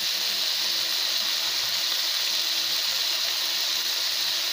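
Prawns and sliced onions frying in oil in a non-stick pan, giving a steady, even sizzle.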